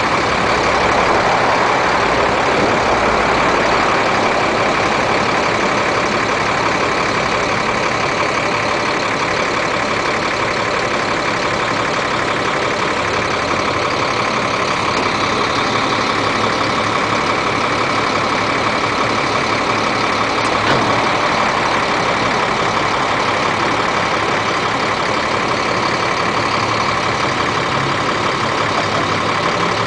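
Caterpillar 3126 diesel engine of a service truck running steadily while the truck's crane is operated. There is one faint click about 21 seconds in.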